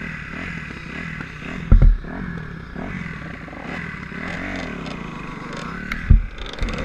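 Dirt bike engine running with its revs rising and falling, with two heavy thumps, one under two seconds in and another about six seconds in.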